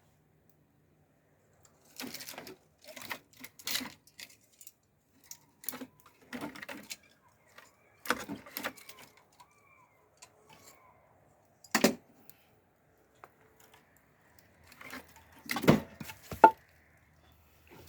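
Irregular clattering and knocking in short bursts every second or two, loudest near the end.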